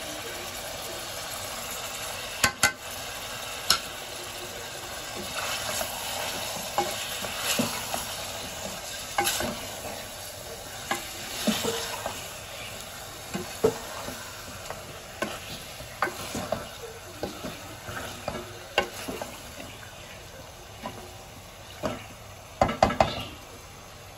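Mutton and onions sizzling in oil in an aluminium pressure cooker, stirred with a spoon that scrapes and knocks against the pot. The knocks come every few seconds, with a quick run of them near the end.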